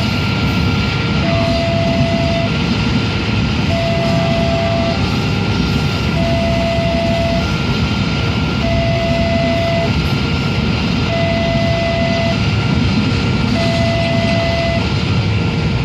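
A train running past with a steady, loud rumble, while a railway level-crossing alarm sounds over it: an electronic two-tone signal alternating about every second.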